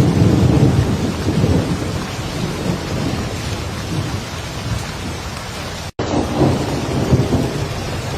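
Heavy rain falling steadily, with low rolling thunder rumbling underneath, strongest at the start and again just after a momentary cut in the sound about six seconds in.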